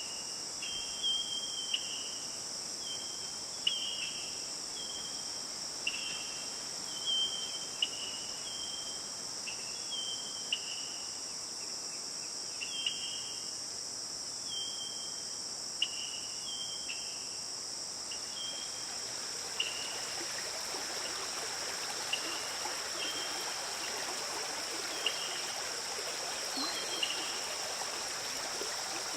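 Forest stream running, growing louder about two-thirds of the way in, under a steady high insect drone. A short chirp that steps down in pitch repeats roughly once a second.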